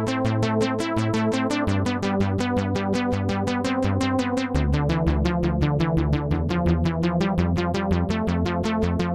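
Waldorf Protein synthesizer playing a patch of rapid, evenly pulsing notes, about seven a second, over sustained low chords that change twice.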